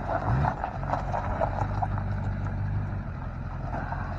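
Duramax diesel truck engine running: a brief rev just after the start, then a steady low drone, with light rattling ticks over the first couple of seconds.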